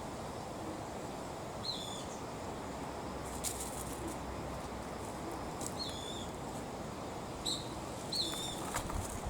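Short, high bird chirps, each with a quick downward hook, repeated every one to two seconds over a steady low outdoor background noise, with a few brief clicks.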